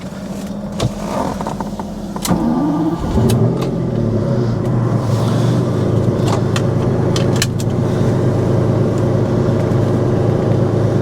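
1992 Lamborghini Diablo's 5.7-litre V12 with a straight-piped exhaust starting up: a steady hum for about two seconds, a click, then the engine catches about three seconds in, flares briefly and settles into a steady idle.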